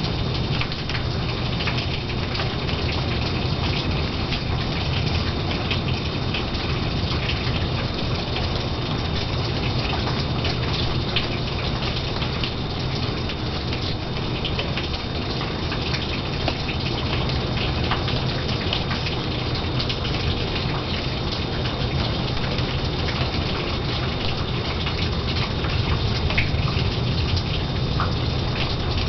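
Steady rain from a thunderstorm, falling evenly with the patter of many drops.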